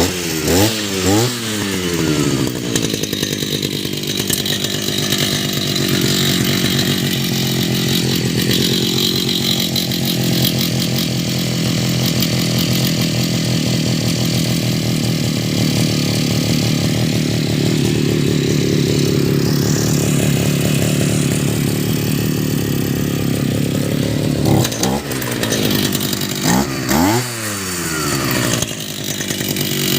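Two-stroke brush cutter engine running at a steady idle, revved up and back down several times in the first couple of seconds and again a few seconds before the end.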